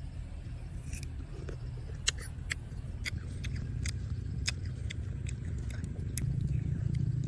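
A person biting and chewing tamarind, scattered crisp clicks of eating over a steady low background rumble.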